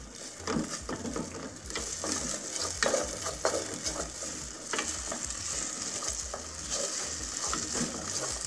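Diced potatoes frying in olive oil in a stainless steel pot, a steady sizzle, with a wooden spatula scraping and knocking against the pot at irregular strokes as they are stirred continuously to keep them from sticking.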